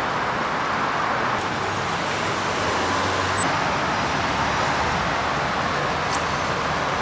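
Steady road traffic noise, an even rush of passing cars, with a few faint ticks on top.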